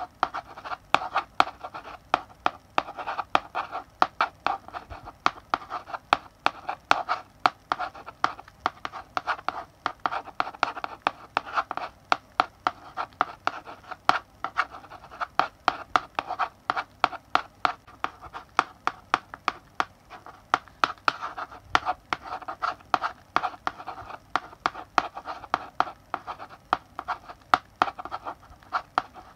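Chalk writing on a blackboard: quick taps of the chalk against the board mixed with short scratchy strokes, several a second in an uneven rhythm.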